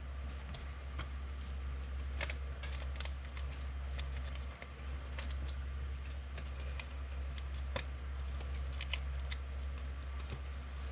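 Trading cards being handled, flipped and sorted, a run of light irregular clicks and snaps over a steady low hum.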